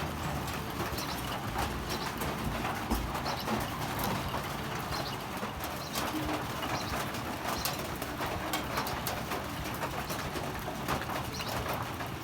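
Outdoor bird sounds over a steady background, with many small clicks throughout.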